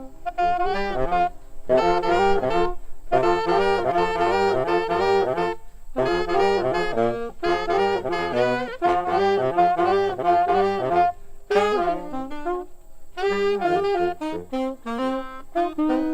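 Jazz saxophone playing fast, running melodic lines in phrases broken by short pauses.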